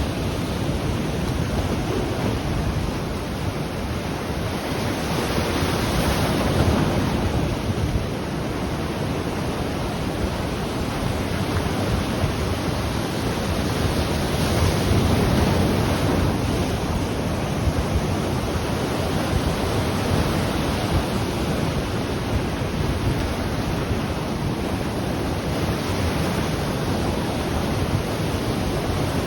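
Sea surf breaking and washing in, a steady rush that swells about every ten seconds as each wave comes in, with some wind on the microphone.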